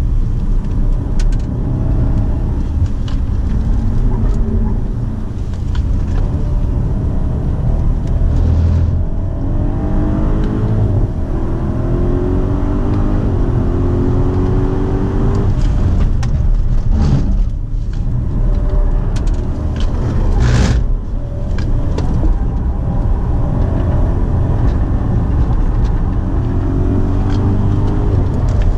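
2017 BMW Alpina B7's twin-turbo V8 under hard acceleration on a race track, its note rising and stepping down through upshifts, over constant heavy road and wind rumble. A couple of brief sharp thumps come past the middle.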